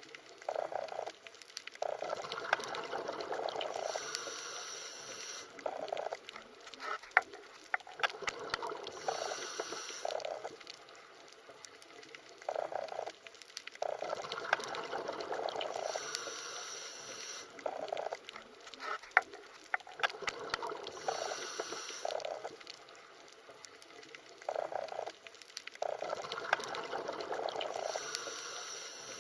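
Underwater water sounds: bubbling and gurgling in swells that return about every six seconds, with scattered sharp clicks.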